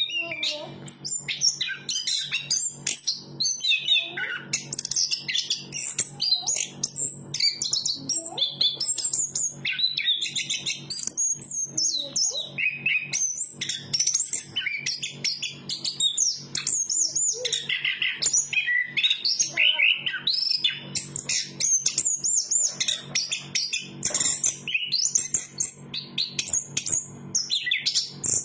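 Chestnut-capped thrush singing continuously in fast, varied, high-pitched phrases with hardly a pause, over a faint steady low hum.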